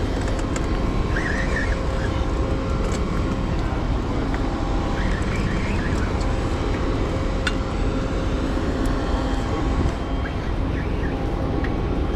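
Steady mechanical drone with several constant tones, typical of engines or machinery running nearby. Two short high chirps come about a second in and about five seconds in, with a few faint clicks.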